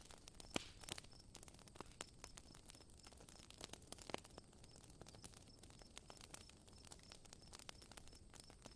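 Campfire crackling softly: irregular snaps and pops of burning wood over a faint hiss.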